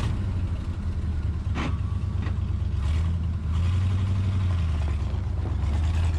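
Old Chevy grain truck's carbureted gasoline engine running as the truck pulls away, its pitch rising a little through the middle as it picks up speed. The engine is freshly tuned up (new cap, rotor, points, condenser, carb kit) and runs smoothly. A short knock sounds about a second and a half in.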